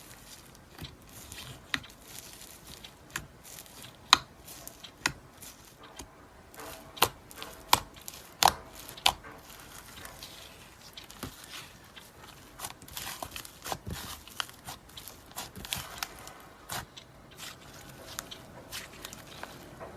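Slime being pressed and stretched by hand, giving irregular sharp pops and crackles, with a cluster of louder pops near the middle.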